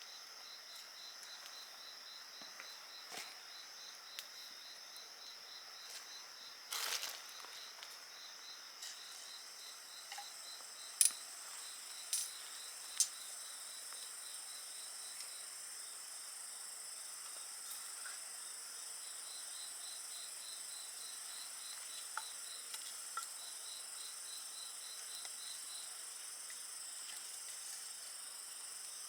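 Steady chorus of night insects, several high-pitched trills at once with one evenly pulsing chirp that pauses midway and resumes. A wood fire crackles over it with a few sharp pops, the loudest about eleven seconds in.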